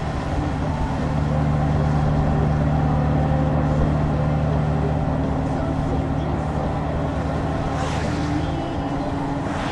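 Honda Gold Wing's flat-six engine running steadily while riding, with wind and road noise over the microphone. The engine gets a little louder about a second in, and its note changes near the end.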